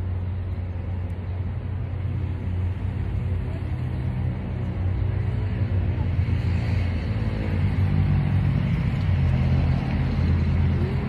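A motor vehicle's engine idling close by: a steady low rumble that grows a little louder in the second half.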